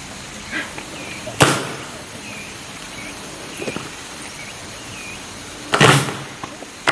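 Honor guards' rifle butts striking the ground during drill. One sharp crack comes about a second and a half in, and a heavier cluster of strikes comes near the end, over a steady hiss.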